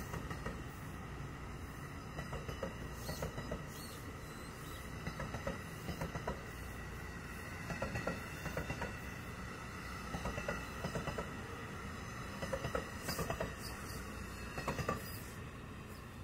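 Passenger train passing at track level: a steady rumble of rolling wheels, broken every second or two by groups of sharp wheel clicks as each car's trucks go by, with a faint steady high tone above.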